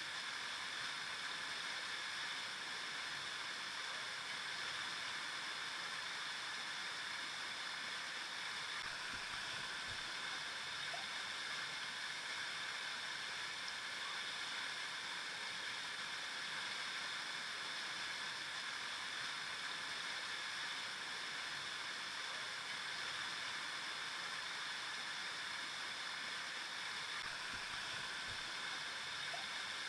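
River water flowing steadily over rocks, an even, continuous rushing.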